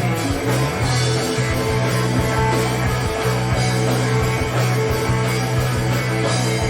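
Live heavy metal band playing an instrumental passage: distorted electric guitars and bass holding low notes over drums, with no singing.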